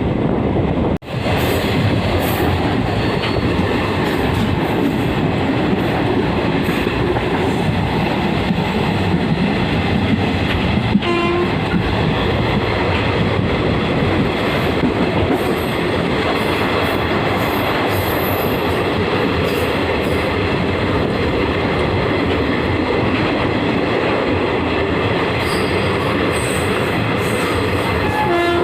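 Passenger train running, heard from on board: a steady loud rumble and rattle of the coach on the rails. The sound cuts out for an instant about a second in. A short horn note sounds about eleven seconds in, and the horn starts again near the end.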